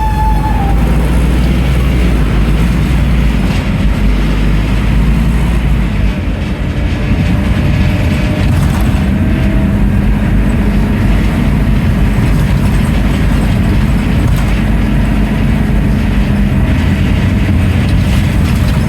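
Scania N310UA articulated city bus on the move: its diesel engine and ZF Ecomat automatic drivetrain running steadily under road noise and body rattles.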